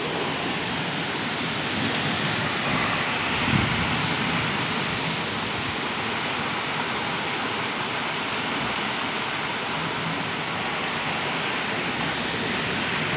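Heavy thunderstorm rain pouring down steadily, with a brief low thump about three and a half seconds in.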